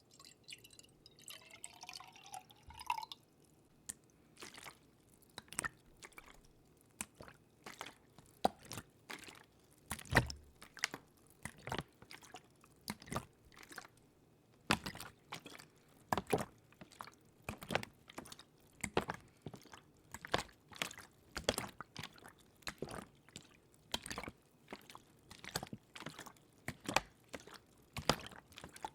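Close-miked water drips and small splashes, irregular, about two a second, with a brief rising gurgle in the first few seconds.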